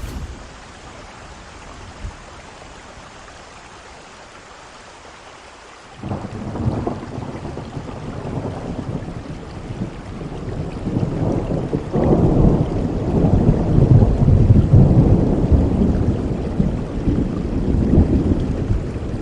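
Steady rain, then about six seconds in a sudden crack of thunder that rolls into a long, deep rumble. The rumble swells louder around the middle and is still rumbling at the end.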